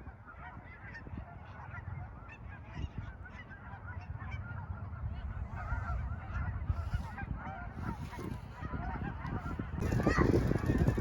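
A large flock of migrating geese honking, many calls overlapping, over a low rumble, growing louder about ten seconds in.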